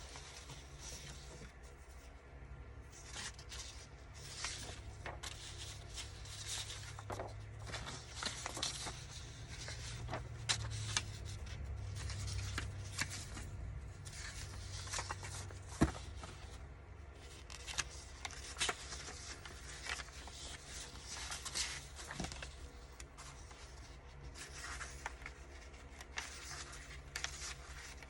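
Papers being sorted and handled: intermittent rustling and light taps as sheets are shuffled and picked up. A steady low hum runs underneath.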